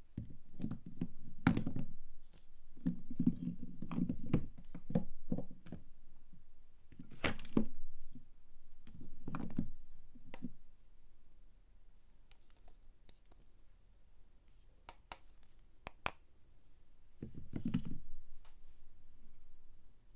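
Bars of soap being unpacked and handled by hand: scattered knocks, clicks and handling noise from the bars and their packaging, coming in clusters with quieter gaps between.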